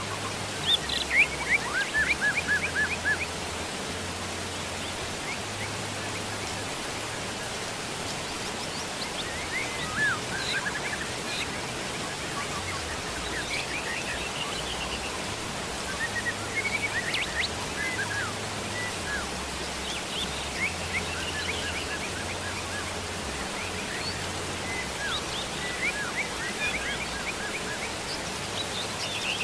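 Steady hiss of falling rain, with a small bird chirping in quick rapid series several times over it, loudest about one to three seconds in.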